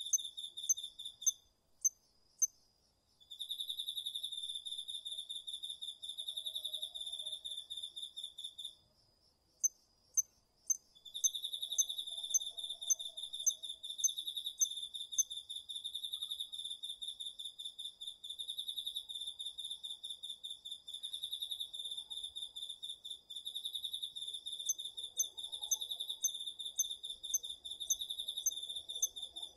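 Autumn night insects, crickets among them, singing together. One insect gives a steady high trill that stops about a second in, resumes a couple of seconds later, breaks off again around the middle and then carries on. Over it, another gives sharp, higher chirps about twice a second.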